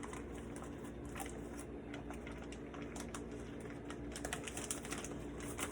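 Faint, scattered small clicks and crackles of hands handling raw meat and packaging, over a steady low hum.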